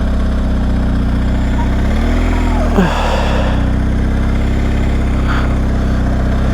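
BMW R1250 motorcycle's boxer-twin engine running steadily at low revs, the pitch staying even. A brief sound falling in pitch cuts across it a little under three seconds in.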